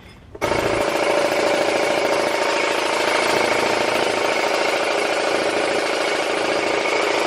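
Small air compressor switching on about half a second in and running steadily, putting a little air into a pit bike's inner tube so it will not pinch when fitted into the tyre.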